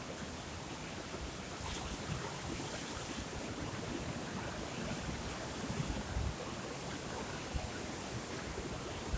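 Sea surf washing steadily, with wind gusting against the microphone in low, irregular rumbles.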